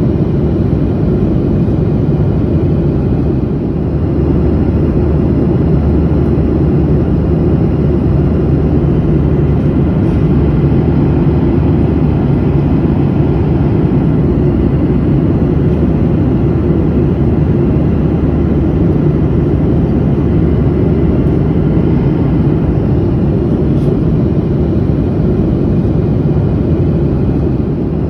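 Steady low rumble of a passenger airplane in flight, heard from inside the cabin: engine and airflow noise, unchanging throughout.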